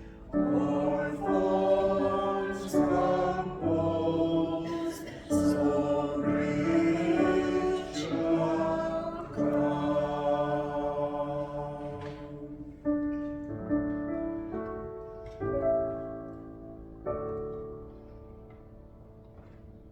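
Church choir singing a slow hymn in sustained phrases. The final chord dies away a few seconds before the end.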